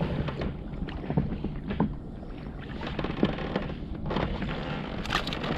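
Wind rumbling on the microphone over water sounds around a small fishing boat, with a few scattered light clicks and knocks.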